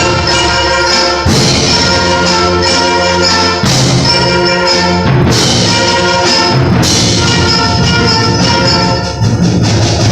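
Eighth-grade concert band playing loudly, with brass to the fore over sustained chords and sharp accented hits every couple of seconds.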